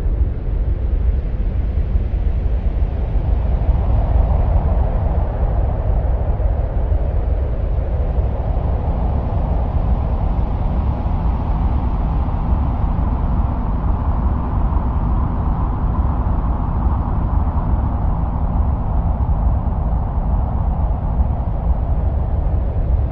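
Steady deep, wind-like rumble presented as the sound of Mars. A higher rushing layer over it swells twice and fades toward the end.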